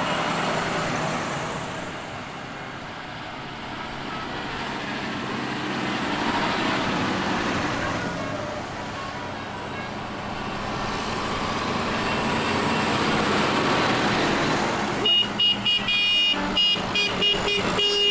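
Tractor engines in a procession, rising and falling as the machines pass. About three seconds from the end, a vehicle horn starts sounding in a rapid series of short toots.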